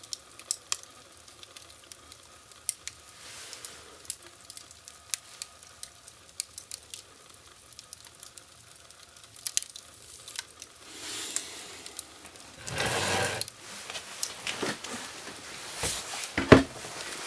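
Wood fire crackling in a fireplace: scattered sharp snaps and pops over a faint hiss, with a louder rushing noise about thirteen seconds in and a sharp loud pop near the end.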